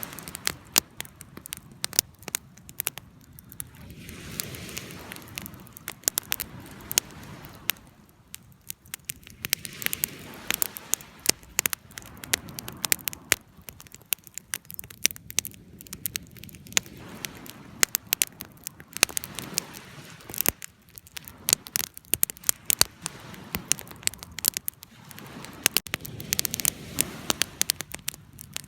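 Wood fire burning, with dense irregular crackles and pops over a soft rush of flame that swells and fades every few seconds.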